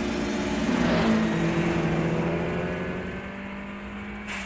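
Car engines at high revs as a turbocharged Toyota Corolla Levin passes, with a Nissan Silvia following close behind. The engine pitch drops about a second in and then holds as a steady drone. The sound changes abruptly near the end.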